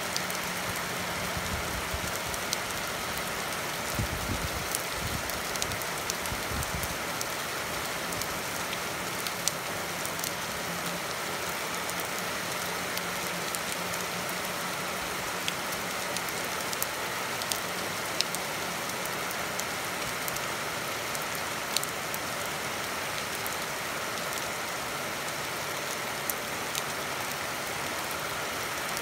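Steady rain falling on a wet street and lawn: an even hiss with scattered sharper drop ticks.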